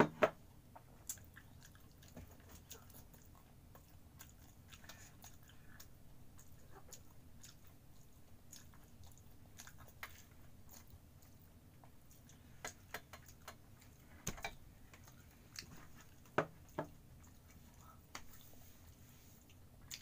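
A person chewing fried food close to the microphone: wet mouth smacks and crisp clicks come at irregular intervals, with a few louder ones just after the start and about two-thirds of the way through.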